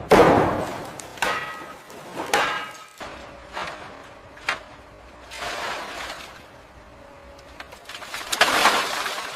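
A run of crashes and clanks, the first three with a ringing metallic tone, then lighter knocks and a loud grinding crash about eight and a half seconds in: heavy debris being struck, dropped or torn loose.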